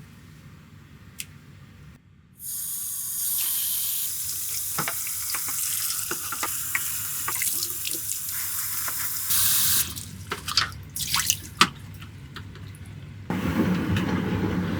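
Water running in a steady stream during washing-machine cleaning, starting about two seconds in and cutting off near ten seconds, followed by scattered drips and splashes; near the end a fuller, deeper rush of water starts.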